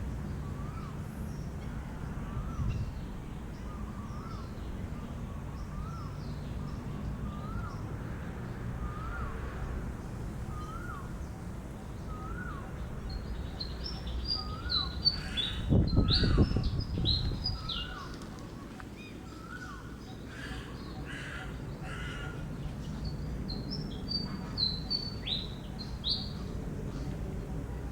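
Birds calling: a short rising-and-falling note repeated about once a second, then two bursts of quick high chirps. The first burst comes with a loud low rustle.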